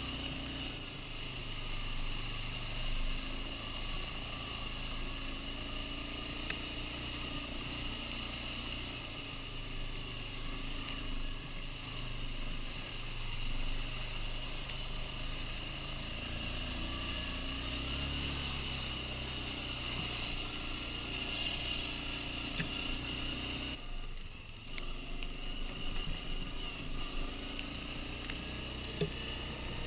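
Quad bike (ATV) engine running under way, its pitch rising and falling with the throttle. About 24 seconds in the engine sound briefly drops away, then picks up again.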